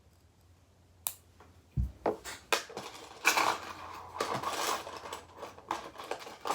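Small metal butterfly-knife parts and screws being handled: a sharp click, a low thump, then an irregular run of clicks, taps and rustling clatter.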